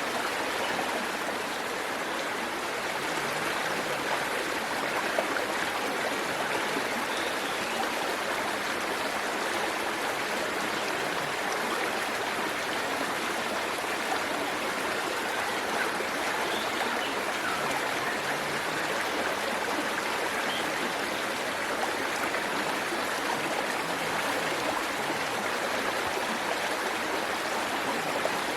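Waterfall and stream water running in a steady, even rush.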